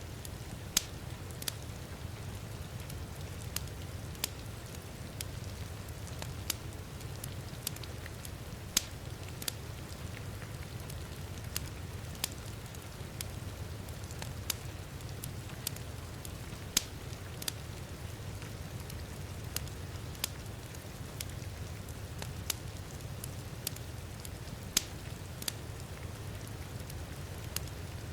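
Crackling wood fire in a fireplace, with irregular sharp pops about once or twice a second, over a steady low rush of heavy rain.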